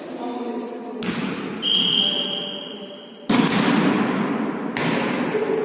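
A ball struck and bouncing on a hard indoor court, three sharp thuds with the middle one loudest, echoing in a large hall. A steady high-pitched tone lasts about a second and a half between the first two thuds.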